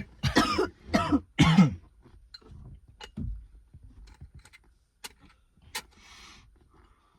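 A person coughing hard on smoke, three loud coughs in quick succession in the first two seconds, followed by faint clicks and a short soft hiss about six seconds in.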